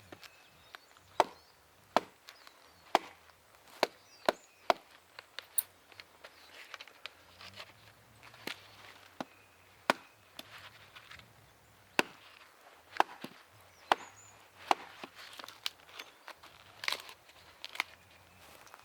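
Wood being chopped with a blade: a series of sharp strikes, irregularly about one a second, with short pauses between runs.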